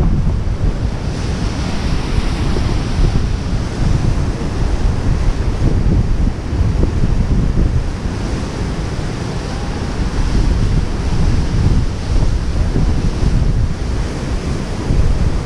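Wind buffeting the microphone in gusts over the steady rush of Yosemite Falls.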